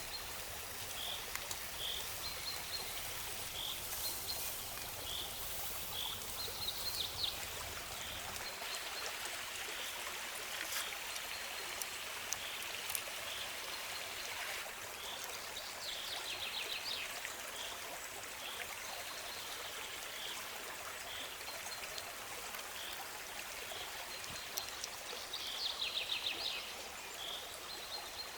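Stream flowing steadily, with a short high chirp repeating about once a second and a brief rapid trill three times.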